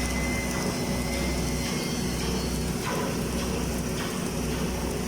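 Automatic girth welder running a submerged-arc capping pass under flux: a steady crackling hiss over the low hum of the machine.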